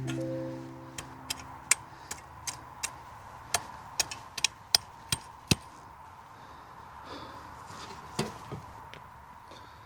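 A run of about a dozen sharp, irregular knocks over four seconds, then a pause and one more knock near the end.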